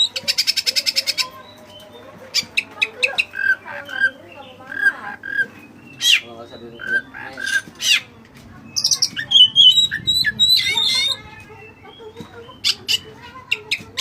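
Oriental magpie-robin (kacer) singing a varied song. It opens with a rapid chattering rattle, then runs through whistled notes, sharp high calls and harsh, scratchy squawks.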